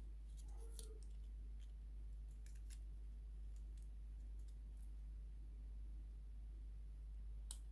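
A few faint, scattered clicks from small parts of a floppy disk drive being handled and fitted, over a steady low hum.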